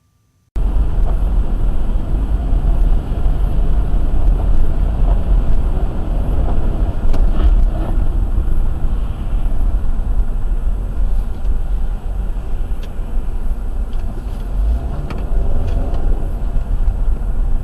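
A car driving, with steady engine and road noise heavy in the low end and a few faint knocks along the way.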